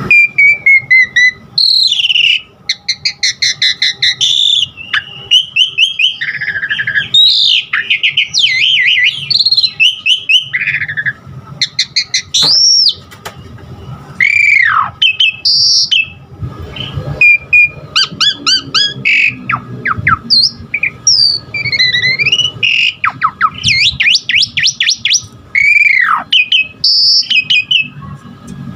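Asian pied starling (jalak suren) singing a long, varied song of loud whistles, rapid repeated notes and rising and falling swooping calls, filled with notes borrowed from other birds' songs.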